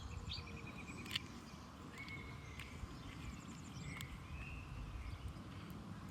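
Small birds calling outdoors: a quick trill of repeated notes near the start, then short scattered chirps and whistles. A few sharp clicks and a low rumble sit underneath.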